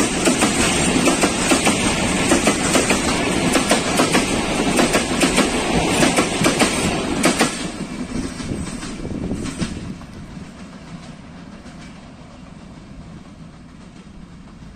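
Intercity passenger coaches passing close at speed, their wheels clattering over the rail joints with rapid clicks. The last coach goes by about seven and a half seconds in, and the clatter drops away and fades as the train recedes.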